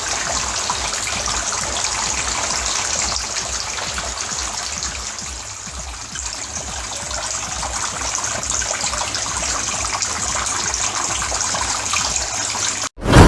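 Homemade plastic-bottle tabletop water fountain running, with water steadily splashing and trickling. It cuts off suddenly near the end, and a loud ding sounds.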